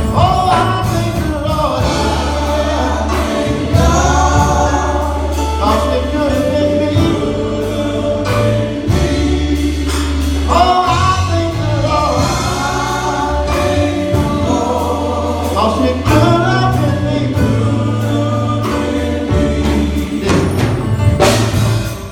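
Gospel choir singing with a band, a strong bass line and drums keeping a steady beat.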